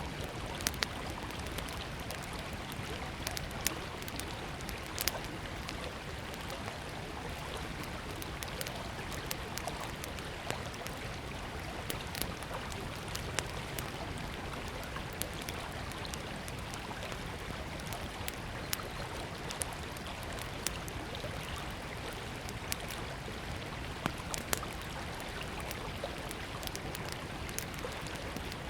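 A small wood campfire crackling, with frequent sharp pops scattered irregularly over the steady rush of a flowing river.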